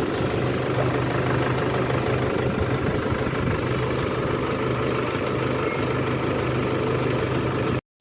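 A vehicle engine idling steadily with an even low hum, cutting off suddenly just before the end.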